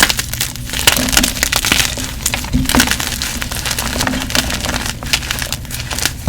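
Gym chalk being crushed and crumbled: a dense, crunchy crackling of many small breaks and crumbles, going on steadily with frequent sharper cracks.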